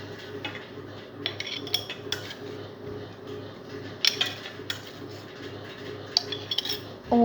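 Garlic cloves being dropped into a glass jar: scattered light clicks and clinks in a few small clusters, over a faint steady hum.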